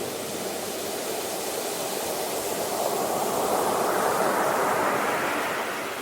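Sea waves: the steady hiss of surf swells as a wave rolls in and breaks about four seconds in, then eases off as it washes back.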